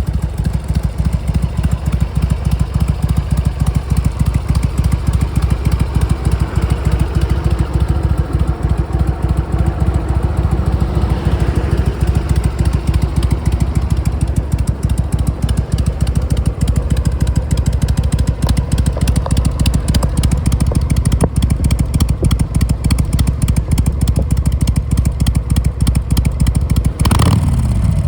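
A 2003 Harley-Davidson XL883C Sportster 883 Custom's air-cooled V-twin engine idling steadily with an even, rapid pulse. Near the end the throttle is blipped once: a quick rev up and back down.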